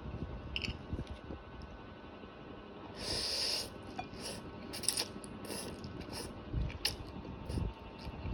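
Close-miked eating of spaghetti aglio olio: sharp clicks of cutlery on a plate and wet mouth sounds of eating, with a longer hiss about three seconds in.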